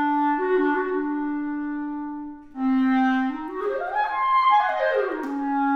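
Solo clarinet playing: a long held low note, a brief pause for breath about two and a half seconds in, then a quick run that climbs and falls back to another held low note.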